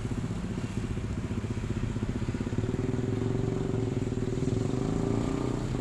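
Engine running steadily with a low, even hum, growing slightly louder.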